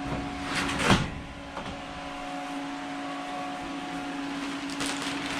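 Steady electric motor hum with a constant tone from the hot-water heating equipment, with a single knock about a second in.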